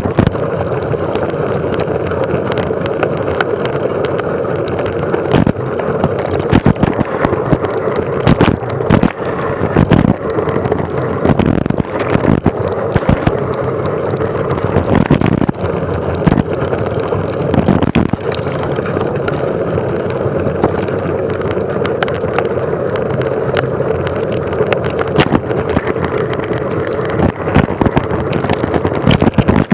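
Mountain bike ridden fast over rough trail: a steady rush of wind on the microphone with frequent sharp knocks and rattles from the bike jolting over bumps.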